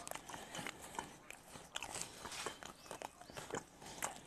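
Close-miked chewing of a sticky, chewy steamed ma-ku fruit dipped in sugar: irregular wet smacks and small clicks of the mouth, several a second.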